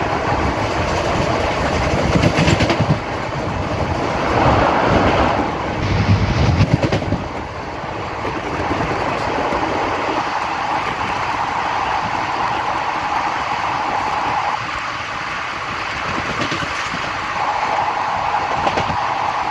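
Passenger train running at speed, heard from the open doorway of a coach: a steady rumble of wheels on rails with rushing air. The rumble is louder in the first several seconds, and a few sharp wheel clacks come through.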